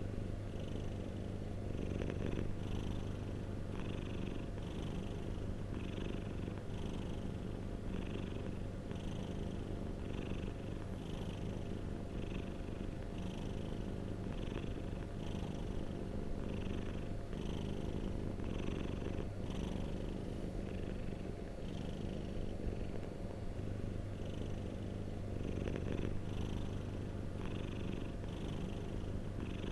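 Domestic cat purring steadily and close up: a continuous low purr that pulses regularly with its breathing, about three pulses every two seconds.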